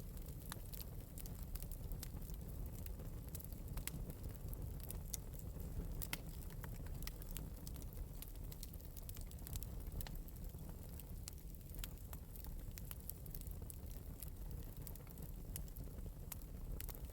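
Wood fire in an open metal fireplace crackling lightly, with frequent small pops and snaps over a low steady rumble of flame.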